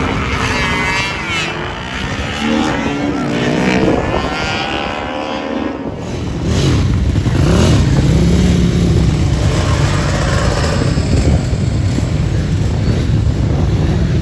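Motorcycle engines revving, their pitch rising and falling for the first few seconds. About six seconds in, a louder, deeper engine sound takes over.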